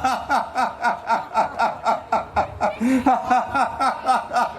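Loud, sustained rhythmic laughter, an unbroken run of 'ha-ha-ha' at about four to five a second, each 'ha' falling in pitch: deliberate laughter-yoga laughing.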